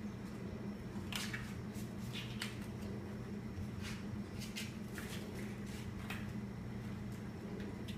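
Kittens pawing and scrabbling around a dust mop: about ten short, light scratches and taps, scattered irregularly over a steady low hum.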